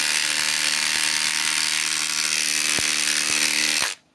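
Milwaukee M18 Fuel Gen 4 impact driver hammering steadily under load as it drives a 3-inch lag screw into a pre-drilled hole. It stops abruptly a little before the end.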